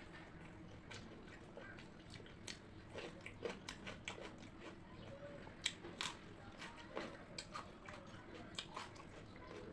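Close-up eating sounds of a person chewing pakhala bhata (soaked rice) with crunchy sides: irregular crisp crunches and mouth clicks. They are sparse at first, come thick from about two and a half seconds in, and the sharpest crunch falls about halfway through.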